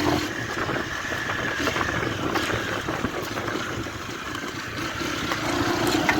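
Honda Fan 125 single-cylinder motorcycle engine running steadily at low revs.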